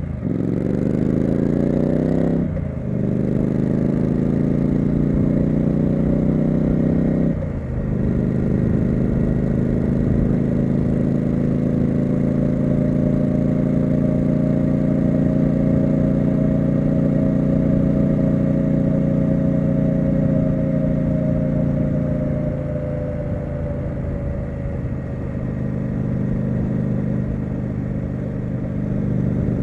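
Triumph Street Scrambler's 900 cc parallel-twin engine accelerating, with three quick upshifts in the first eight seconds, then running at a steady cruise that eases off about two-thirds of the way through.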